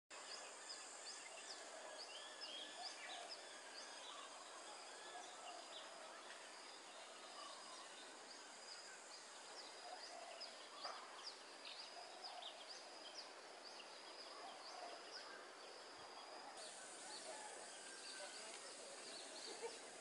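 Faint outdoor ambience of many short, high bird chirps repeating throughout, over a steady high background hum.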